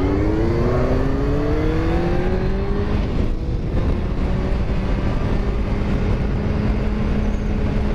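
Yamaha FZ1's inline-four engine pulling under acceleration, its note rising steadily for about three seconds. After a brief break it holds a steady note.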